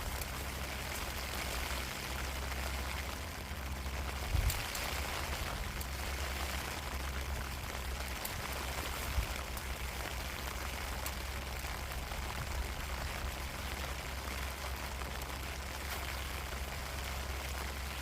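Heavy rain falling steadily, with wind rumbling on the microphone. A couple of brief knocks stand out, about four and nine seconds in.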